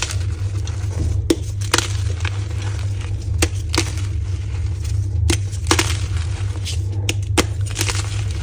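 Soft blocks of gym chalk being crushed and crumbled, with crunching and sharp cracks at irregular moments, over a steady low hum.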